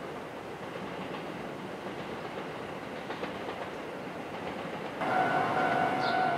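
A JR 281 series Haruka limited express rumbling steadily as it approaches along the track. About five seconds in this gives way to a louder, steady electronic warning tone.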